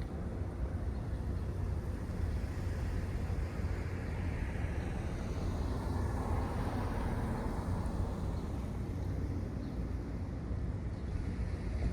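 Outdoor rumble of a vehicle passing by, swelling up and fading away around the middle, over a steady low rumble.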